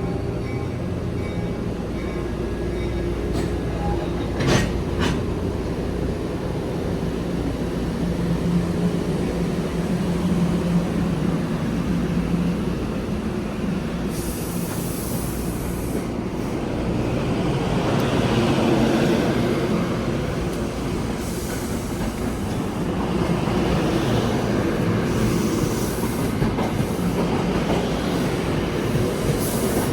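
NJ Transit train running along the tracks: a steady rolling rumble with wheel clatter and a few sharp clicks, and stretches of high hiss or squeal about halfway through and again later.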